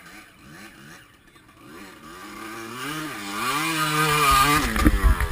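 Enduro motorcycle engine revving up and down, growing louder over the second half. Near the end it gives way to loud low rumbling gusts.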